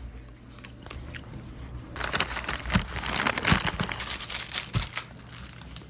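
Plastic food packaging crinkling and crackling as it is handled, sparse at first, then a dense stretch of crinkling from about two seconds in to about five seconds.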